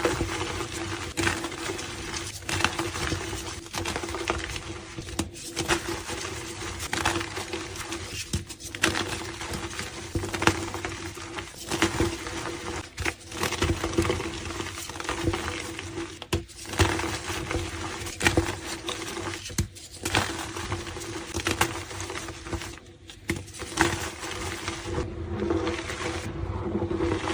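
Blocks of gym chalk being crushed and crumbled by hand: a dense run of crunching and crackling with short pauses every few seconds, over a faint steady low hum.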